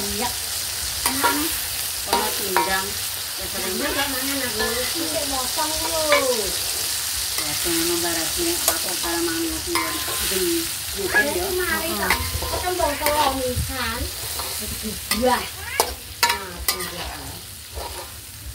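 Tomato-chilli sambal sizzling in a wok on a gas stove while a metal spatula stirs and scrapes it, with sharp clicks of the spatula against the wok coming more often in the second half. Wavering pitched sounds run underneath.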